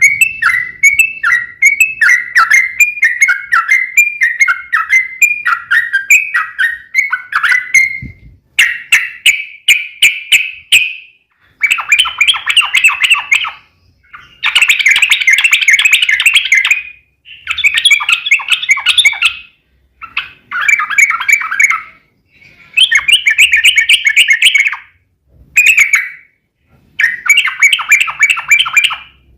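Yellow-vented bulbul (trucukan) song, loud. First comes a run of short repeated notes, about two a second. Then come bursts of rapid chattering song, each about two seconds long, with brief pauses between them.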